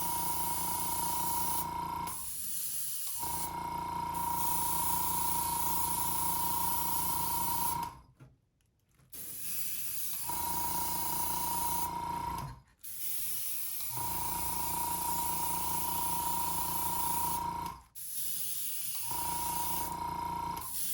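Airbrush spraying watered-down paint: a steady hiss of air with a thin whistling tone, in long bursts that stop briefly several times as the trigger is released, with the longest break about 8 seconds in.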